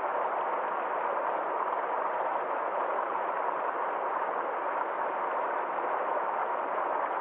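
Small forest stream flowing in a steady, even rush of water.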